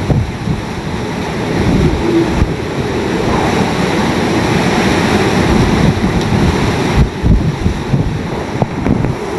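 Hurricane-force wind blowing in gusts and buffeting the microphone. A gust builds about a second and a half in and eases again after about seven seconds.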